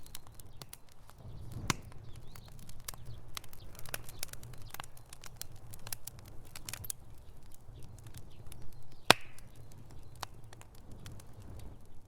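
Wood fire crackling in a fireplace: irregular snaps and pops over a low rumble of the flames, with one loud pop about nine seconds in.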